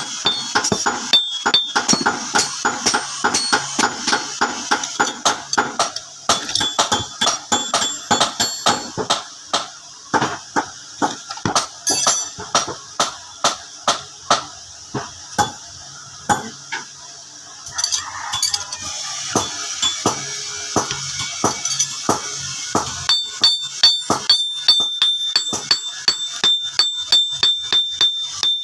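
Repeated sharp hammer strikes, two to three a second, over background music.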